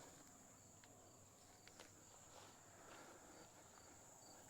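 Near silence: faint outdoor background of insects, a steady high-pitched drone with a soft chirp repeating about twice a second. A couple of faint clicks come near the middle.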